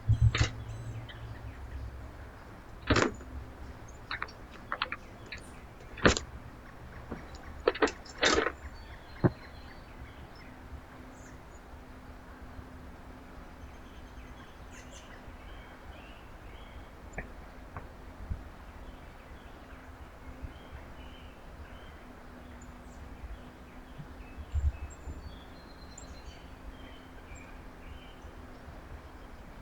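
Several sharp knocks and taps at a backyard bird feeder, clustered in the first ten seconds, with faint bird chirps and a low steady hum underneath.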